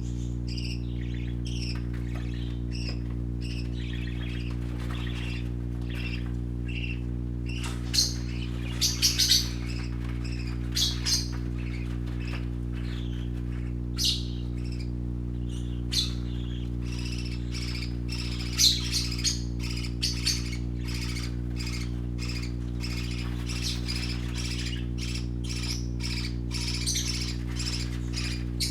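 Young parakeets chirping and chattering continuously, with louder sharp squawks every few seconds, over a steady low hum.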